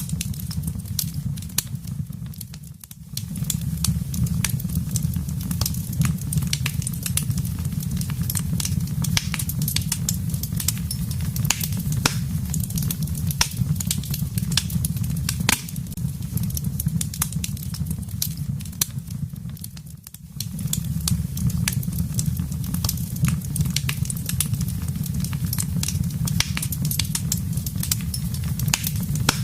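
Wood fire burning in a fireplace: a steady low rumble of flames with frequent sharp, irregular crackles and pops from the burning wood. The sound briefly drops away twice, about three seconds in and again about twenty seconds in.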